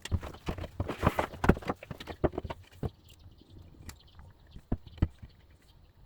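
A run of sharp wooden knocks and clacks, quick and close together for the first three seconds, then a few single knocks: wooden boards and tools being set down and handled on a workbench.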